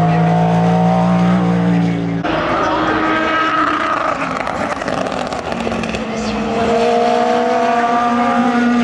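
Race car engines running at the track, with a steady engine note that changes abruptly about two seconds in and again about five and a half seconds in as different cars are heard.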